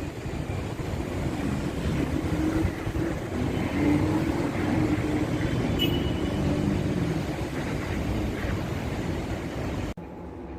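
Steady rumble of road traffic, with engines passing. It drops off suddenly near the end.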